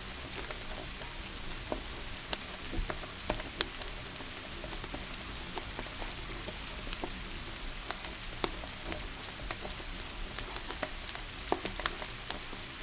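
Steady rain hiss with irregular sharp crackles and pops from a burning wood fire.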